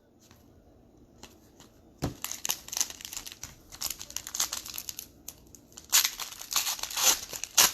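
Plastic trading-card pack wrapper crinkling and tearing as it is opened and handled. It starts about two seconds in as dense crackling and is loudest near the end.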